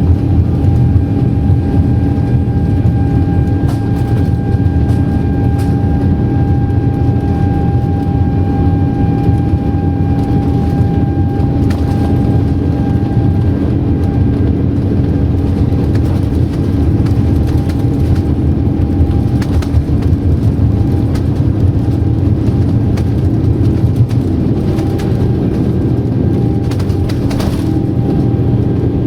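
Boeing 787-9 jet engines and airflow heard inside the cabin: a loud, steady rumble with a thin whining tone that fades about halfway through.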